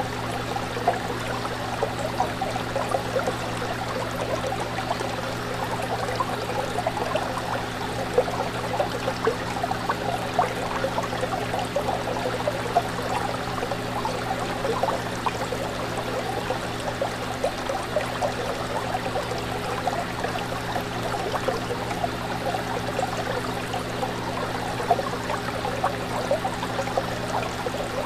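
Aquarium water bubbling and trickling steadily, with a low steady hum from the tank's pump underneath.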